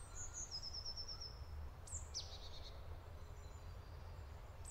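Songbirds singing faintly in a forest: a quick run of high repeated notes about half a second in, then a couple of high notes sliding downward about two seconds in, with a low steady rumble underneath.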